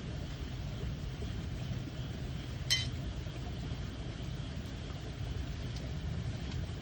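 Stream water flowing with a steady low rush, under a burning campfire; one sharp pop of burning wood comes near the middle.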